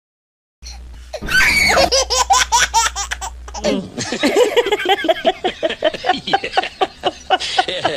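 A person laughing hard in rapid, rhythmic bursts, starting about a second in.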